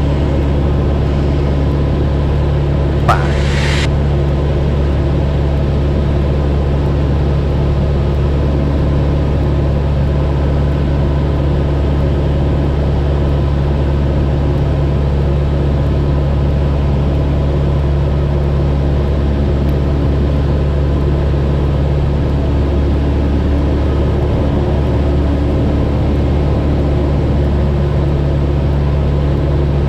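Cessna 172's engine and propeller droning steadily in cruise flight, with no change in pitch or level.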